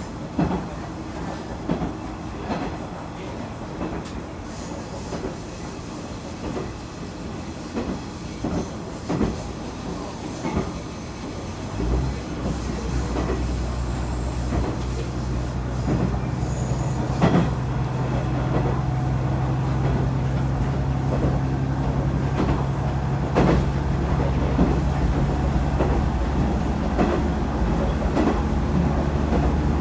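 Diesel railcar of the JR Ban'etsu East Line running along the track, its wheels clicking over rail joints, with a thin high wheel squeal in the first half. About twelve seconds in, the diesel engine comes on under power with a steady low hum, and the ride gets louder.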